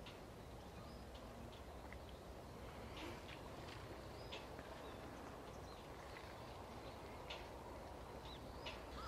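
Faint outdoor background hiss with scattered short, high chirps of distant birds, a few seconds apart.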